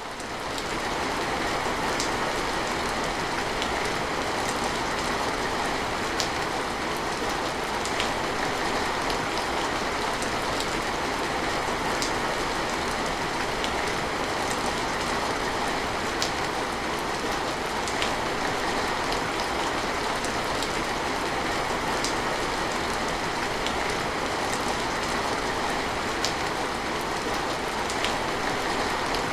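Steady rain falling, with scattered sharper drops standing out. It fades in during the first second, then holds an even level.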